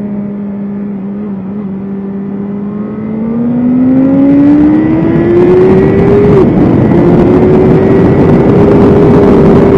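BMW S1000RR inline-four sport bike engine on track. It runs at moderate revs for about three seconds, then accelerates hard with the pitch climbing and the sound getting louder. After a brief dip about six seconds in, it holds high revs, with wind rush over the top.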